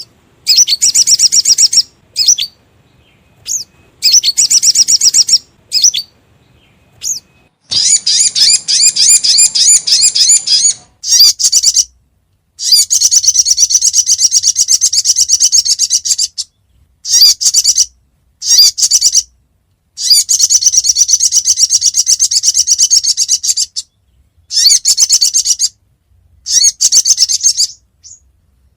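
Recorded song of a sogon bird (sogok ontong), played as a lure call: bursts of rapid, high-pitched chirping trills that start and stop abruptly. Each burst lasts from about half a second to four seconds, with short silences between.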